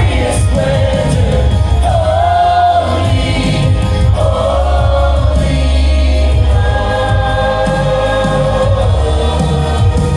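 Gospel worship music: a choir and worship singers holding long sung notes over a live band with steady bass.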